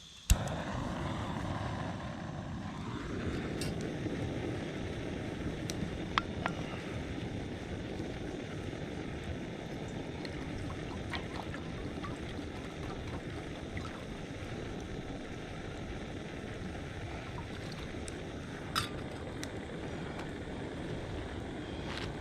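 Campfire burning with a steady rushing roar and a few sharp crackles and pops scattered through it.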